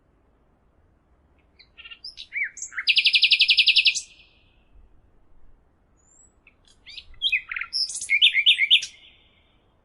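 A songbird singing two short phrases of chirps and whistles. The first, about two seconds in, ends in a fast, even trill; the second comes near the end as a quick run of repeated notes.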